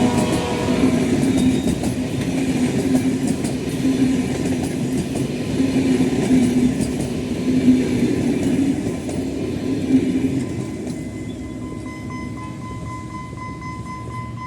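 A train hauled by a General Electric diesel locomotive passing close by: the end of a horn blast just after the start, then the loud rolling of wheels on rail with quick clicks over the rail joints, fading after about ten seconds.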